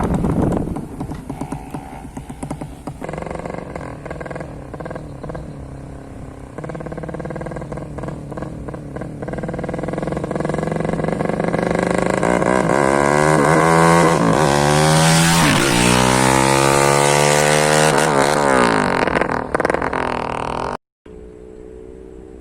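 Bored-up 200cc Yamaha Jupiter single-cylinder four-stroke motorcycle engine running steadily, then revved up and down several times in the second half, its pitch rising and falling with each blip. The sound cuts out briefly about a second before the end.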